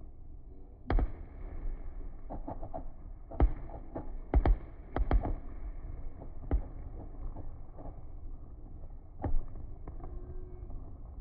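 Fireworks going off: a string of sharp bangs at irregular intervals, with the loudest cluster about four to five seconds in. Beneath them runs a steady low rumble.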